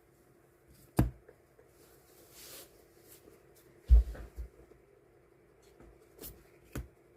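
Desk handling of die-cut stickers and their packaging: a sharp tap about a second in, a brief soft rustle, a heavier knock about four seconds in followed by a few lighter taps, and two more taps near the end, over a faint steady hum.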